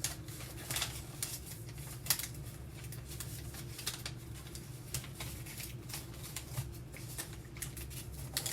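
A sheet of paper rustling and crackling in short, irregular bursts as it is folded and creased by hand, over a low steady hum.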